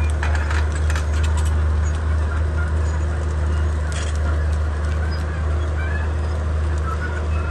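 Komatsu D31P bulldozer's diesel engine running steadily under load, with sharp knocks and cracks near the start and about four seconds in, and short high squeaks scattered throughout.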